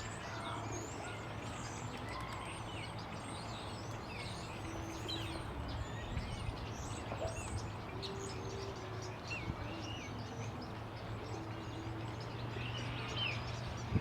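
Many small birds chirping and calling, short quick notes overlapping throughout, over a steady low hum.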